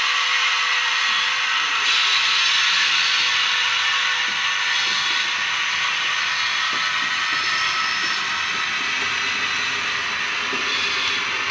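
HO-scale model train running on the track: a steady mechanical whir with a few faint clicks.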